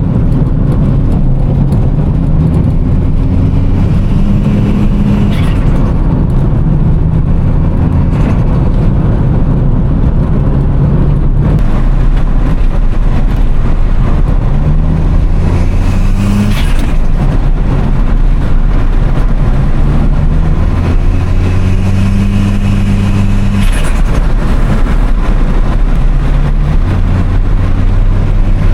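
Toyota Starlet Glanza V's small turbocharged four-cylinder engine pulling hard through the gears, its pitch climbing and then dropping at each shift. Several times a short hiss of turbo flutter comes as the throttle closes.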